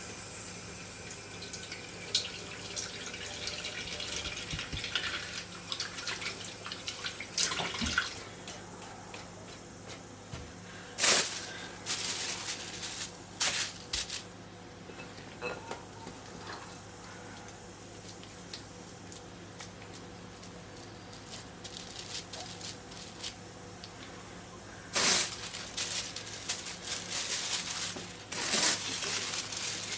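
Kitchen tap running in several short bursts, with quieter wet handling sounds between them, while chicken patties are shaped by hand.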